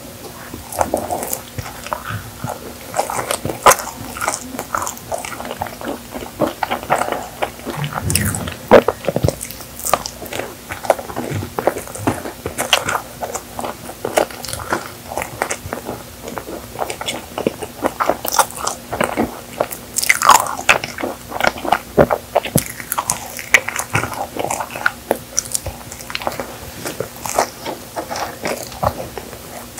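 Close-miked eating: biting into and chewing a chocolate-coated marshmallow cookie, with crunches of the chocolate shell and many short, irregular wet mouth clicks and smacks.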